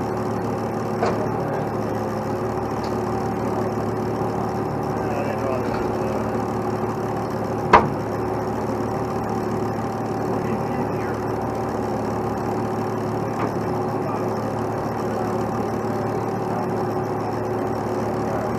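Tow truck's diesel engine running steadily at a constant speed, with one sharp knock about eight seconds in and a fainter one near the start.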